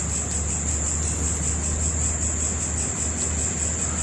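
Steady high-pitched insect chirring, a fast even trill, over a low steady hum.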